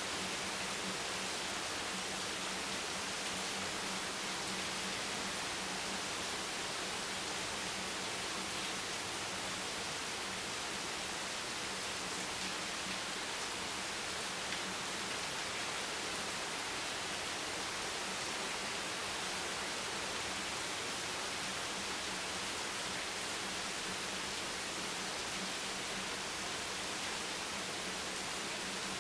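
Steady rain, heard as an even hiss with no separate drops or thunder, over a faint low hum.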